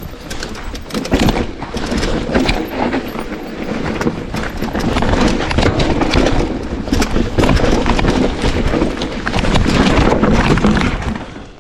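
Mountain bike riding fast down a rough downhill trail: tyres rolling over dirt and stones, with constant clattering knocks from the bike and a deep rumble, growing louder after about four seconds.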